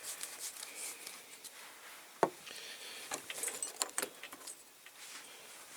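Light clicks and taps of small objects being handled on a workbench, with one sharp click about two seconds in and a few lighter clicks a second later.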